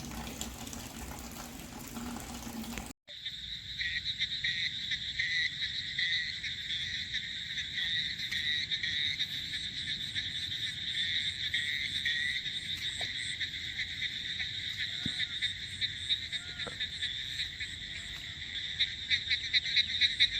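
A steady, dense chorus of frogs and insects calling, a trilling buzz that grows more strongly pulsed near the end. It follows a few seconds of even hiss that cuts off abruptly.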